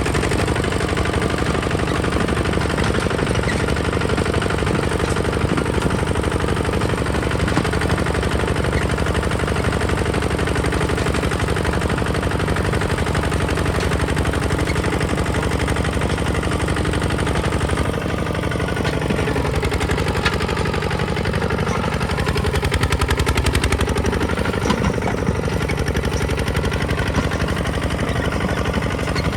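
Kubota ZT 155 DI single-cylinder diesel engine running steadily with a rapid, even chugging beat, its tone shifting slightly a little past halfway.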